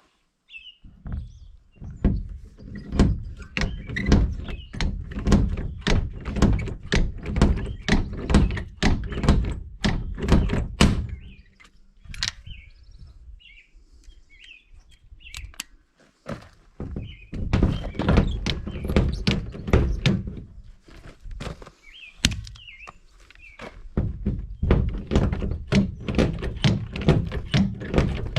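Rapid series of dull thuds, about three a second, in two long runs separated by a pause of a few seconds near the middle. Birds chirp faintly in the pause.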